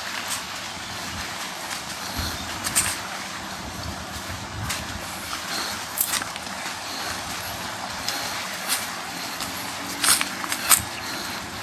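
Seaside ambience: a steady hiss of sea breeze and surf, with scattered sharp clicks and taps every second or two.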